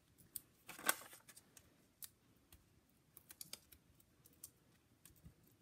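Faint, irregular small clicks and taps of foam adhesive dimensionals being peeled from their backing sheet and pressed onto cardstock, with a slightly louder tap about a second in.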